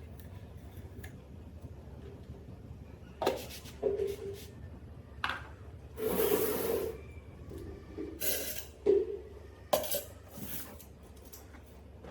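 Scattered clinks and knocks of tools and small parts being handled during a blender repair, with a noisy stretch of about a second near the middle.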